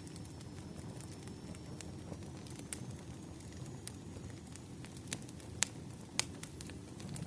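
Campfire burning: a steady low rumble of flames with irregular sharp crackles and pops, a few louder pops in the second half.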